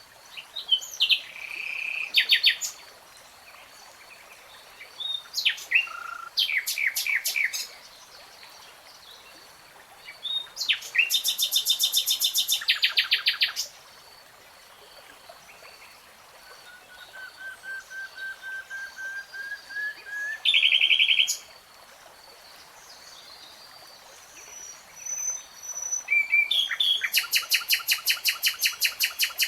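Nightingale singing in separate phrases with short pauses between them. The phrases are fast rattling trills, and around two thirds of the way through there is a slow run of piping notes that grows louder, ending in a short trill.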